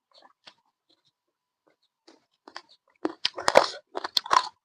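A person chewing and biting pork meat. There are scattered small mouth clicks at first, then a loud, dense burst of crunching about three seconds in.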